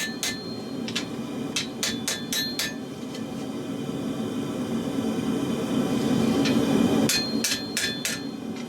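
Hand hammer striking leaf-spring steel on an anvil during forging, each blow ringing. There are quick runs of about five blows a second, one run in the first three seconds and another from about seven seconds in, with a pause between them. A steady low roar lies underneath.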